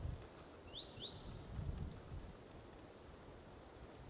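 Faint wild bird calls: two quick rising chirps about a second in, followed by a thin, very high drawn-out note, over a low rumble of wind on the microphone that dies away about halfway through.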